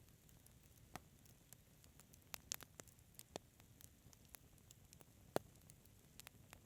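Fireplace fire crackling: scattered sharp pops and snaps over a faint low hiss, with a quick cluster a little over two seconds in and the loudest single pop a little past five seconds.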